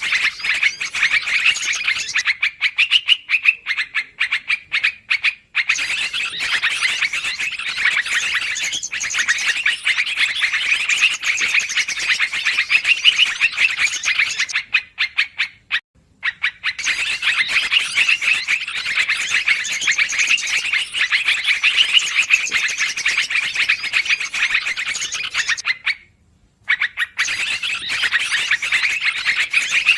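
Yellow-vented bulbuls (trucukan) chattering noisily, many birds calling over one another in a dense, continuous chorus, a lure recording for bird trapping. The chatter cuts out briefly three times: about five seconds in, near the middle, and near the end.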